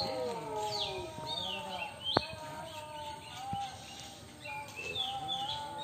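Birds calling with repeated short, falling whistled chirps, over a low steady hum of other voices or calls. A single sharp click sounds about two seconds in.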